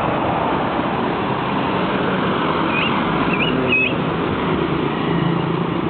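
Steady traffic noise, with a small bird giving a few short chirps about three seconds in.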